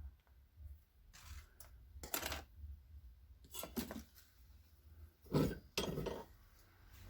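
Small hard objects being handled on a work surface: several short clinks and knocks, the loudest about five and a half seconds in.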